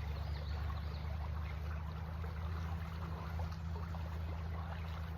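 Creek water running steadily, with a low rumble beneath it.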